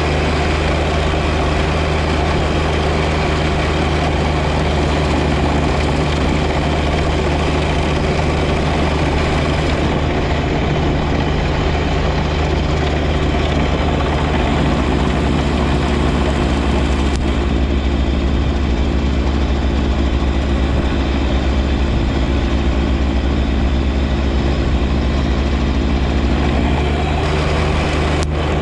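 John Deere 1025R compact tractor's three-cylinder diesel engine running steadily, with a strong low hum.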